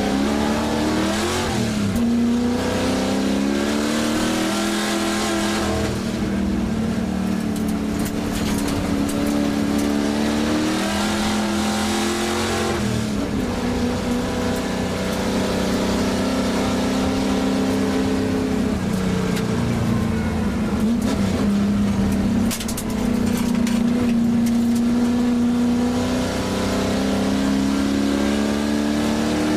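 Shelby GT350's V8 racing engine heard from inside the cabin under hard acceleration. The note climbs and drops repeatedly as the car is driven through gears and corners, with a brief lift of the throttle about two-thirds through, over a hiss of tyres on gravel.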